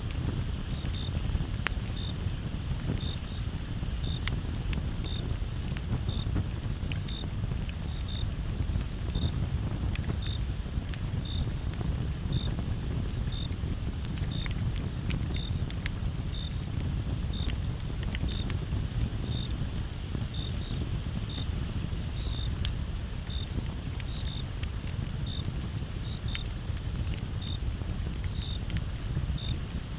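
Campfire crackling, with irregular sharp pops over a low steady rumble of burning, and a chorus of crickets behind it: a constant high trill with a steady chirp repeating about once or twice a second.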